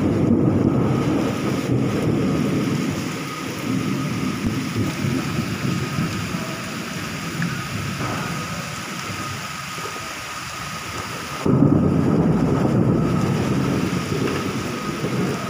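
Rain falling, with a low rumble that swells and eases and jumps louder suddenly about eleven and a half seconds in.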